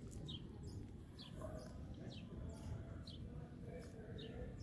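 A small bird chirping: a string of short, falling chirps, roughly one or two a second, over a faint steady low rumble of outdoor background noise.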